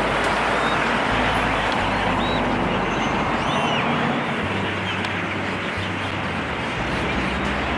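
Dense, continuous chatter of a large flock of yellow-headed blackbirds calling together in trees, over a steady low rumble of city traffic.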